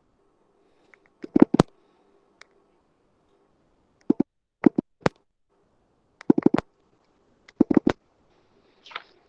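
Several short clusters of sharp clicks and taps close to the microphone, with quiet gaps between them, followed near the end by a brief soft rustle.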